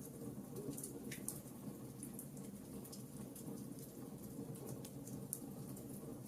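Logs burning in a fireplace: a steady low rush of flames under frequent small, sharp crackles and pops from the wood, with a couple of louder pops about a second in and near the end.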